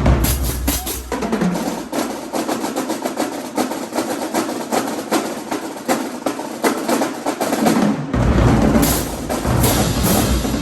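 Marching band drumline playing a fast percussion cadence, with rapid snare strokes and rolls throughout. The deep bass drops out for most of it and comes back in about eight seconds in.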